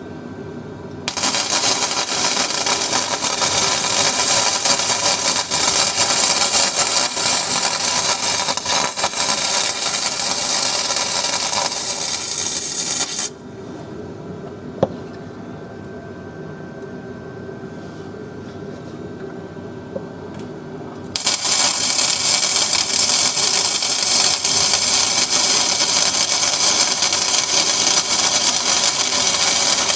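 Welding arc crackling steadily in two long runs on the car's chassis steel: one starts about a second in and stops abruptly about 13 seconds in, and the second starts again about 21 seconds in.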